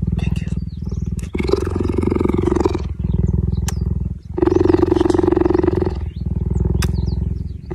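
Big cat growling in long, low, pulsing rumbles, about four stretches with short breaks between them.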